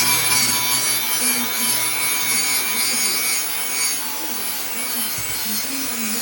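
Abrasive scrubbing on rusty metal: a steady, harsh rasping as rust is rubbed off a motorcycle part.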